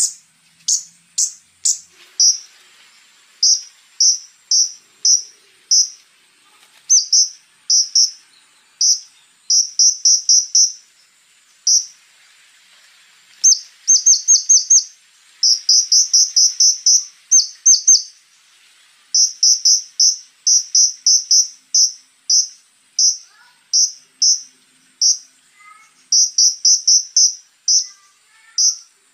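Konin (a flowerpecker) singing: runs of short, sharp high chips, fired in quick bursts with brief pauses between them, over a faint steady high-pitched tone.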